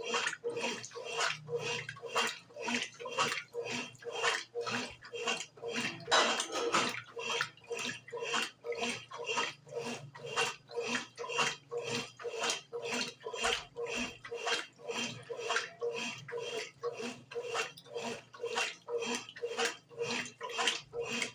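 Brastemp BWG11 11 kg top-loading washing machine agitating laundry in water on its bed-and-bath cycle: rhythmic sloshing swishes, about two a second, over a steady motor hum.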